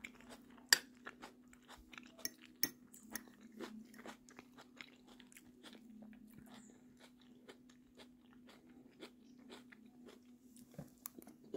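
Someone eating fried ripe plantain with egg sauce: irregular crunches and small wet mouth clicks from chewing, the loudest about a second in, over a faint steady hum.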